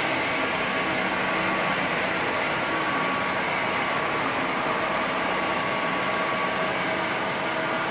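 Medium-size industrial floor-cleaning machine running steadily: an even motor hum with a few steady whining tones over a noisy rush, holding at one level.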